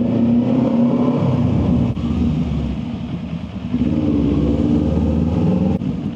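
Motorcycle engine running at low speed while the rider works the clutch, easing off about two seconds in and picking up again about four seconds in, inside a parking garage.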